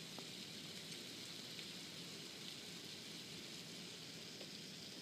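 Hail falling steadily, a dense hiss of small impacts with a few faint ticks standing out.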